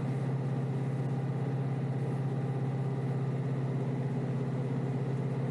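Kioti DK5320SE tractor's diesel engine running steadily, heard from inside the tractor's cab.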